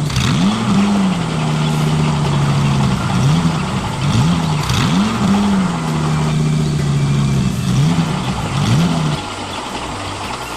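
Engine sound of a remote-control construction vehicle revving in short rising sweeps that settle into a steady hum, over and over, then cutting off about nine seconds in.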